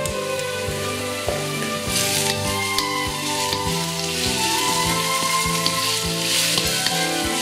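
Chopped onion, garlic and ginger sizzling in hot oil in a steel wok, the sizzle swelling as a spatula stirs and scrapes the pan. Background music plays throughout.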